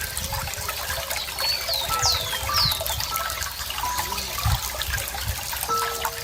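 Running water trickling and splashing steadily, with birds calling over it: several quick falling whistles about two to three seconds in, plus short thin notes.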